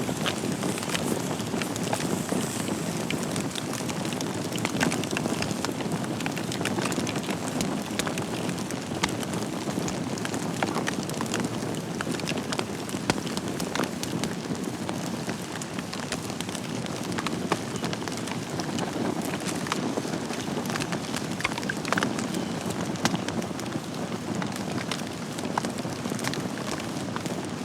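Wood fire burning in a fireplace: a steady hiss and rumble of flames with frequent small crackles and occasional louder pops from the burning logs.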